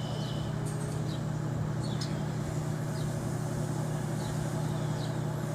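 Steady low hum of outdoor city traffic, with faint short high chirps now and then.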